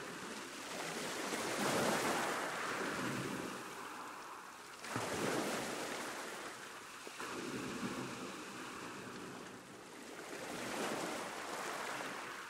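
Sea waves breaking and washing onto the shore, swelling and fading in four surges about three seconds apart, one breaking sharply about five seconds in.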